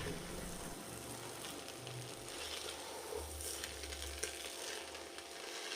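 Faint, steady sizzling hiss from the pot of freshly cooked chicken biryani, with a few light clicks.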